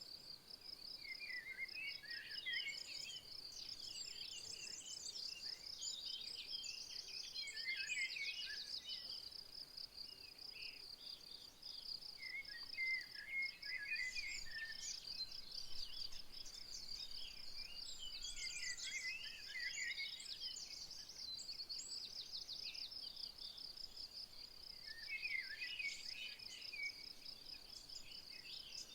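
An insect's steady, high, rapidly pulsing trill, with several songbirds singing short chirping phrases on and off over it.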